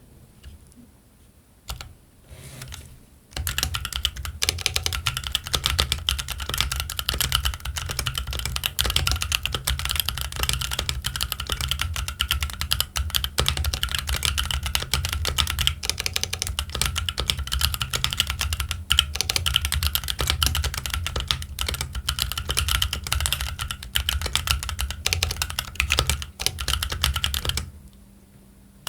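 Keychron Q1 mechanical keyboard with Gazzew Boba U4T tactile switches and ABS Cherry-profile keycaps, typed on fast and continuously. After a near-quiet pause with a single keystroke about two seconds in, the typing starts a little over three seconds in and stops shortly before the end.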